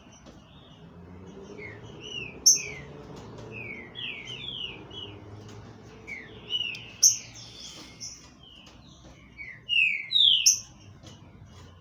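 Green-winged saltator (trinca-ferro) singing: clusters of short, clear down-slurred whistled notes, loudest bursts about 2.5, 7 and 10 seconds in.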